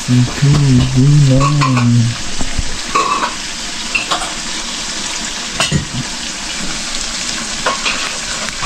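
Meat frying with spices and tomato in a hot pan, sizzling steadily as it is stirred, with a few sharp clicks and knocks.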